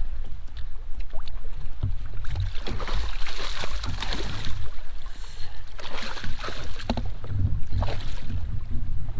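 Kayak on the water: splashing and knocks against the hull, in three splashy spells, over a steady low rumble of wind buffeting the microphone.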